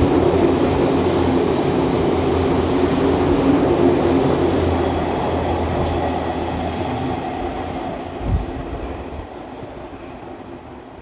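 Train running past on the rails: loud at first, then fading steadily from about six seconds in as it moves away, with a single low thump about eight seconds in.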